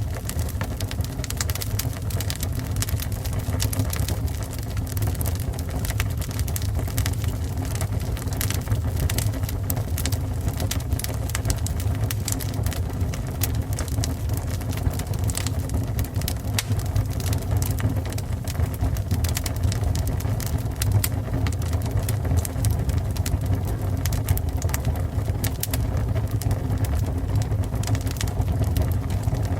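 Fire burning: a steady low rumble with frequent sharp crackles and pops throughout.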